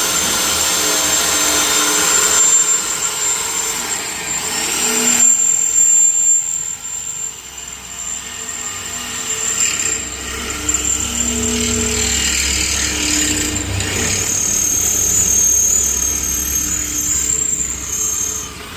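Electric drill boring holes into the top of a metal air-compressor tank, its motor whining steadily. The whine eases off about five seconds in and comes back strongly from around fourteen seconds before stopping near the end.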